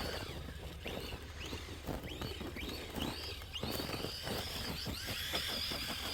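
Electric RC truck's brushless motor whining in short rising bursts as the throttle is blipped, then holding a steady high whine from about halfway through. A scatter of short clicks and crunches runs underneath.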